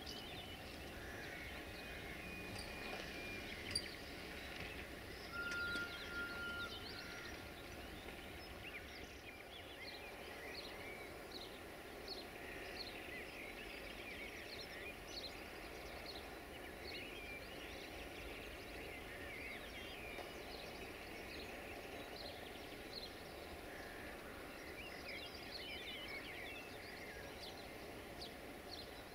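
Birds chirping and singing over faint steady background noise, with one brief steady whistle-like tone about five seconds in and a single click shortly before it.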